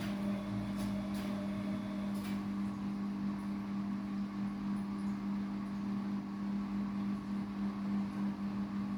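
Bosch washing machine running with a steady electric hum that cuts off suddenly near the end.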